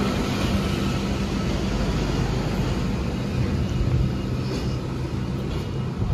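Intercity double-deck electric train running past along the platform: a steady rumble with a low hum.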